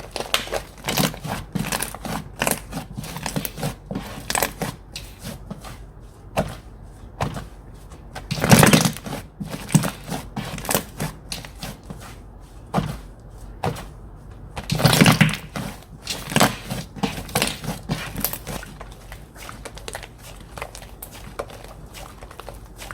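Slime being squeezed, stretched and pressed by hand, making a run of small clicking and crackling pops. Two longer, louder squishes come about a third and about two thirds of the way through.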